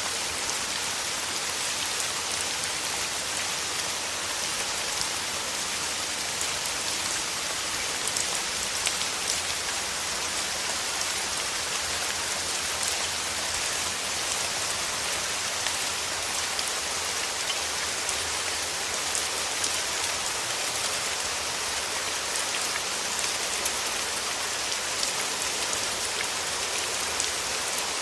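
Steady rain: a dense, even hiss with individual drops ticking through it.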